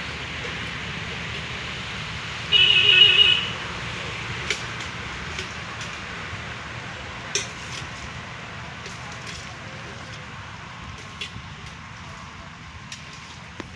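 Steady rush of a flooded river's water. About two and a half seconds in, a vehicle horn sounds once for about a second, followed by a few faint clicks.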